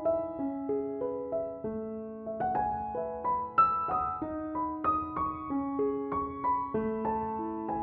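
Gentle background piano music, single notes and chords struck at an unhurried pace and left to ring.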